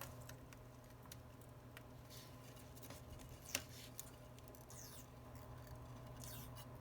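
Light clicks and taps of small phone parts being handled and fitted, the sharpest about three and a half seconds in, over a steady low electrical hum.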